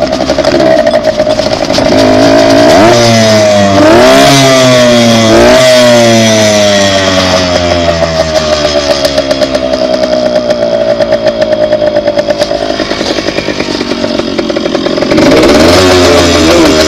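Dirt bike engine running while being ridden: quick revs a few times in the first few seconds, then the engine speed falling slowly for several seconds, and rising again near the end.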